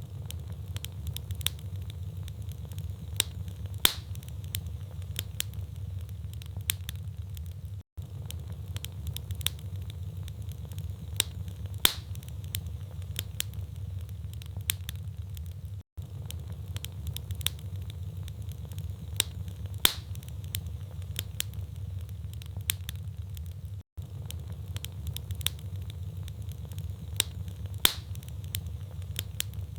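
Wood fire in a fireplace: logs crackling and popping in sharp irregular snaps over a steady low rumble of the flames. It is a short stretch of recording on a loop, repeating every eight seconds with a brief dropout at each join.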